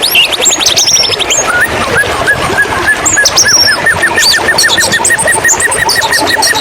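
White-rumped shama singing: a fast trill of repeated high notes, then from about a second and a half in a long even run of repeated hooked notes about five a second, with higher whistled phrases over the top. A steady rush of running water goes on beneath.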